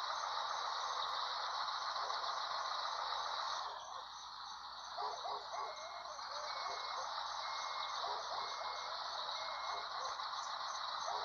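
Steady running noise of a truck working, with five short high beeps about a second apart in the middle, as from a reversing alarm.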